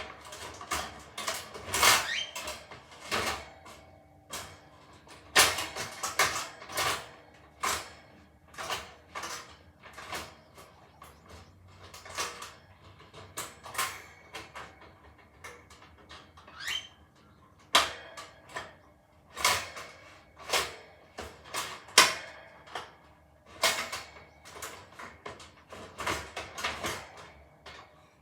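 Irregular clicks and knocks, a few a second with short pauses: small hard parts being handled and set in place.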